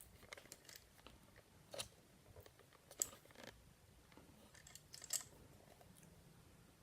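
A person quietly chewing a mouthful of pancakes and eggs, with a few faint, short mouth clicks and smacks scattered through it.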